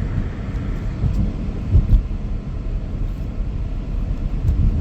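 Car driving on a plowed winter road, heard inside the cabin: a steady low road-and-engine rumble with a few louder bumps about two seconds in and near the end.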